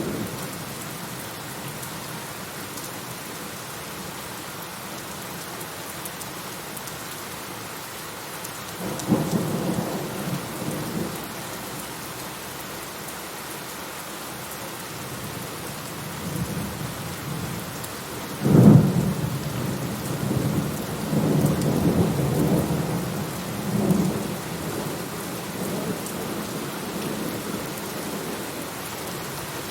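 Steady rain with thunder. A rumble comes about a third of the way in, then a sharper, louder clap just past halfway that rolls on in rumbles for several seconds.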